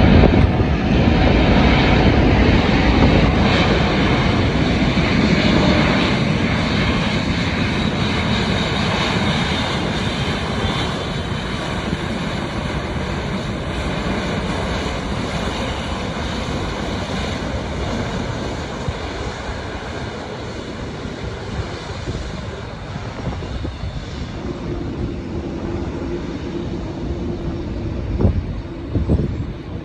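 Jet airliner engine noise as an arriving plane passes, loudest at first and slowly fading as it moves away. A steady low hum comes in near the end, with a couple of short knocks.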